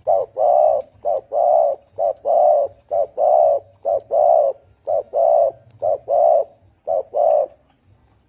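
Deep-voiced spotted dove cooing in a rapid series of phrases, each a short note followed by a longer one, about one phrase a second, stopping a little before the end.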